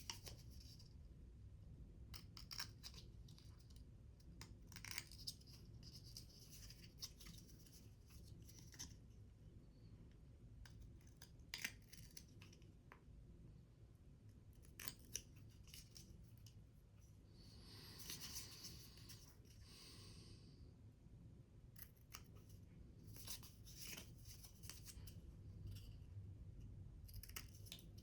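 Scissors snipping paper or thin card in short bursts of cuts, with a longer papery rasp about two thirds of the way in.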